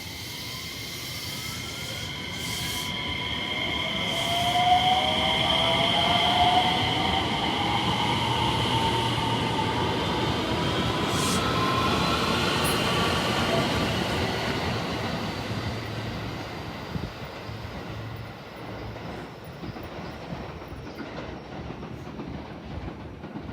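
A train passes by. Its running noise swells over about five seconds, holds, then fades away, with high whining tones over the rumble of the wheels.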